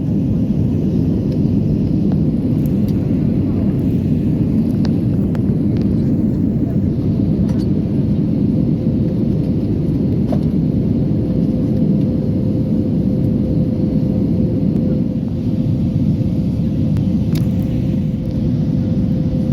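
Steady cabin noise of an Airbus A320neo in flight on approach: a loud, even, low rumble of engines and airflow. A faint steady hum grows a little stronger in the second half.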